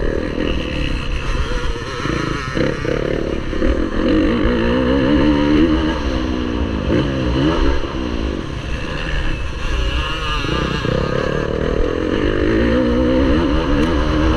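Motocross bike engine racing round the track, its pitch rising and falling again and again as the throttle is opened and closed through the corners, over a steady low rumble.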